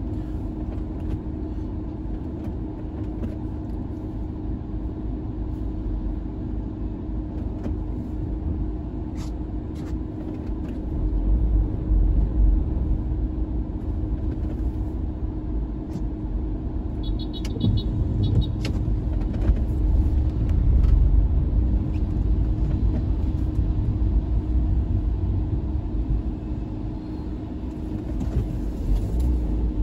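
Car on the move: steady low engine and road rumble with a constant hum, swelling louder a couple of times, and a few faint clicks.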